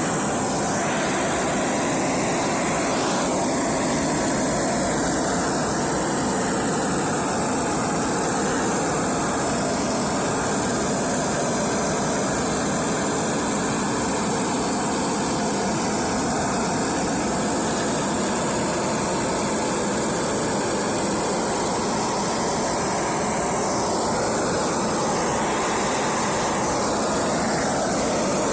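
A handheld power tool, such as a grinder or sander, running continuously with a steady noise.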